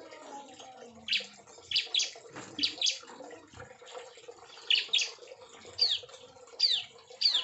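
Bar-winged prinias (ciblek) chirping: short, sharp high notes, some sliding downward, in singles and quick pairs about once a second.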